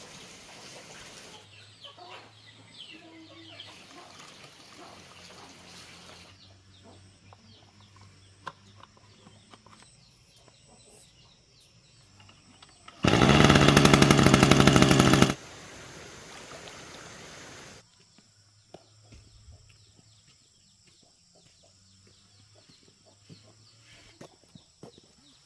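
Short cuts of outdoor ambience with birds chirping. About halfway through, a small gasoline engine of the lawnmower type runs loud and fast for about two seconds, then cuts off abruptly.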